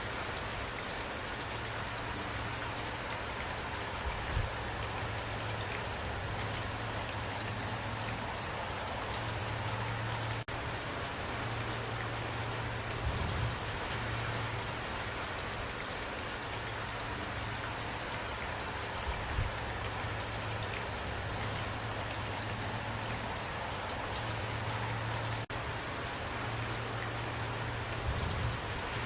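Steady rain falling, an even hiss with no let-up. A low hum comes and goes underneath, and a few brief soft thumps stand out.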